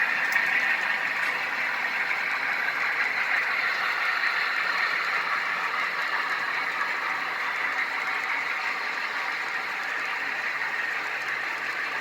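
HO scale model train running on the layout, a steady mechanical running noise that slowly fades.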